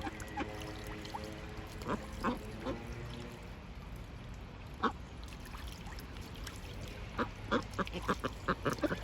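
Domestic ducks quacking in short, separate calls, then a quick run of about a dozen quacks near the end.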